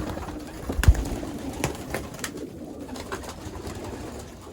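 Young racing pigeons cooing in a loft, a low continuous murmur, with a loud sharp knock about a second in and a couple of lighter clicks after it.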